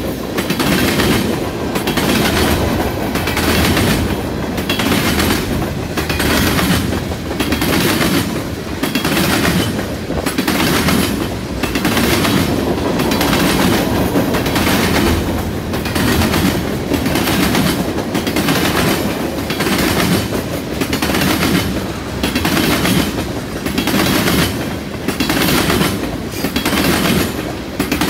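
Freight train of tank cars and hoppers rolling past close by: a steady rumble of steel wheels on rail with an even, repeating clickety-clack.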